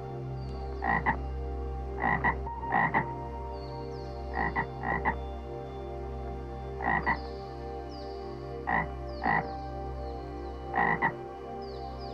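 A frog croaking in short calls, often paired, repeating about every one to two seconds. Faint, high, falling chirps sound behind it.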